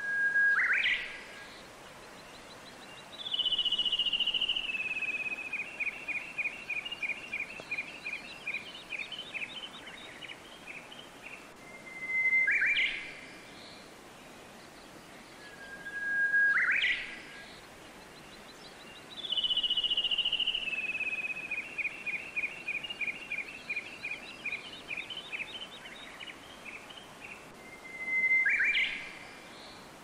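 A songbird singing: short whistled calls that end in a quick upward sweep, and a long song of rapidly repeated notes that slides downward in pitch over several seconds. The same sequence comes round twice, about 16 seconds apart, over a steady background hiss.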